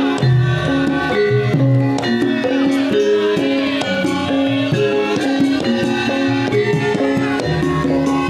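Javanese gamelan music for a lengger and topeng dance: sustained struck tuned notes over steady percussion, played loud through a sound system.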